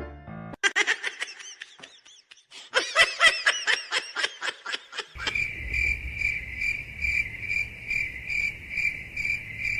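Rapid short high chirping calls, each rising and falling in pitch, then from about five seconds in a steady high chirp pulsing about twice a second.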